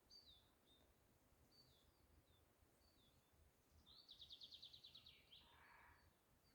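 Faint songbirds in spring woodland: short falling high notes repeating every second or so, and a rapid trill of quick repeated notes about four seconds in, lasting over a second.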